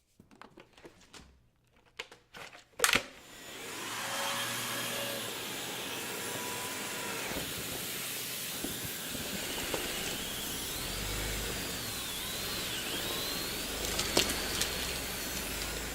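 Dyson Big Ball canister vacuum switched on after a few handling clicks while a different tool is fitted, its motor spinning up about three seconds in and running steadily with a faint whine as it sucks up dog hair, then beginning to wind down at the end.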